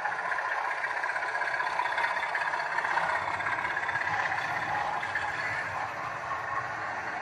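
DCC sound decoder in a model diesel locomotive playing a diesel engine sound through its small speaker, running steadily.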